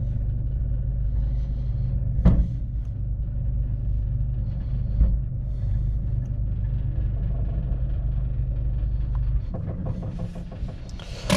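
Scania truck engine running steadily, with a low rumble, while it works the car transporter's hydraulic deck lift. There are two sharp clunks, and the rumble drops off about nine and a half seconds in as the lifting stops.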